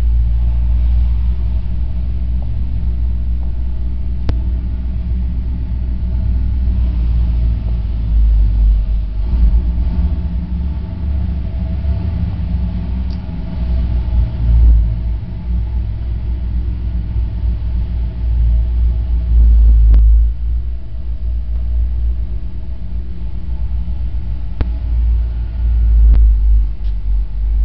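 Fuel-injected 454 cubic-inch V8 of a street-rodded 1942 Packard Clipper idling with a steady low rumble, swelling briefly louder a few times.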